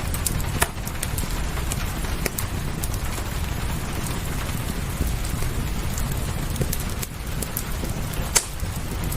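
Wood fire crackling, with scattered sharp pops, over a steady hiss of rain and a low rumble. The loudest pop comes near the end.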